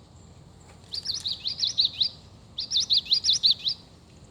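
Recorded common yellowthroat song played from the sound box of a Wild Republic Audubon plush bird. It comes as two bursts of quick repeated high phrases, the first starting about a second in.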